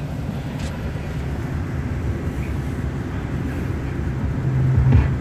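1999 Chevrolet Silverado engine idling steadily on a cold start, just after it took a while to fire. It grows briefly louder near the end.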